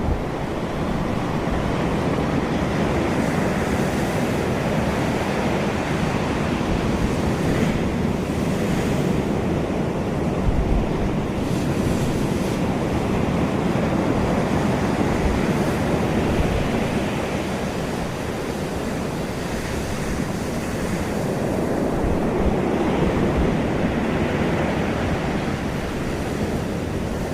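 Steady rushing noise with low buffeting thumps now and then: wind on the microphone.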